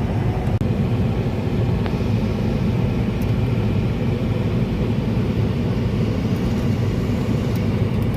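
Steady low rumble with no let-up.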